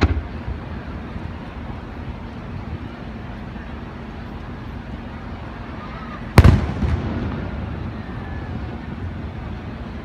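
Aerial fireworks: a sharp bang at the start, then a much louder shell burst a little over six seconds in, trailing off in a rumble with a few smaller cracks.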